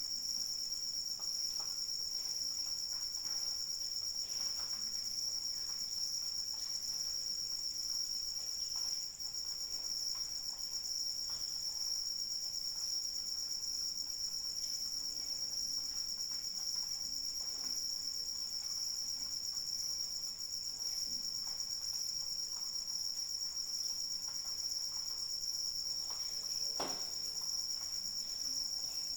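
Crickets chirping in a continuous, steady high-pitched chorus, with faint scattered drops of light rain beneath and one clearer drip near the end.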